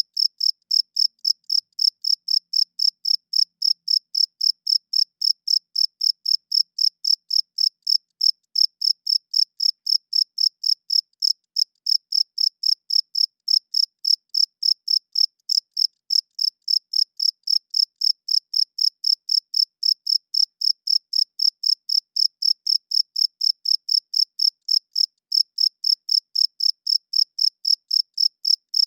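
Male cricket chirping steadily at about three chirps a second, each chirp a short, even, high-pitched trill, made by rubbing its wings together.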